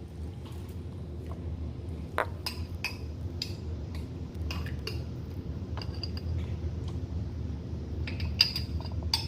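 A spoon clinking and scraping against bowls and jars while dessert ingredients are scooped out, with scattered light clinks and a quick run of them near the end, over a steady low hum.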